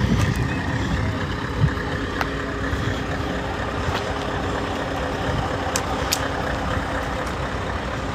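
Truck engine idling steadily, with a thump about one and a half seconds in and a few sharp clicks.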